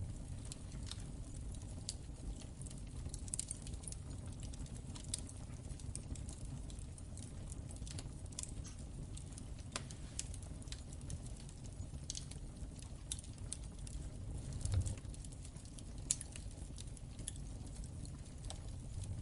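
Wood fire in a fireplace crackling, with irregular sharp pops and snaps over a steady low rumble of the flames, and a soft low thump near the end.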